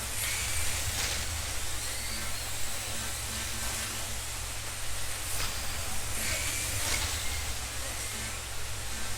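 1/32 scale slot cars racing around the track: a steady hiss of small electric motors and pickup braids running, with short rising whines and cars sweeping past every second or two.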